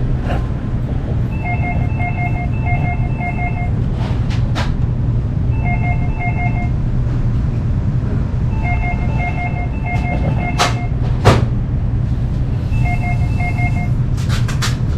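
A steady low hum with repeated groups of rapid, short two-pitch electronic beeps every few seconds, and a few sharp clicks.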